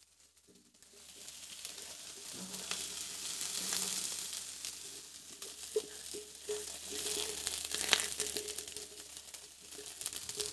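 Pork sausage patties and sliced onions sizzling on a hot Blackstone flat-top griddle, with a few light clicks as the onions are tipped from a stainless steel bowl. The sizzle sets in about a second in and stays steady.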